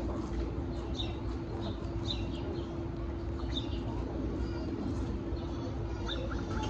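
Chewing a mouthful of Cajun fries close to the microphone, with short high squeaky mouth sounds, over a steady low rumble and a constant hum.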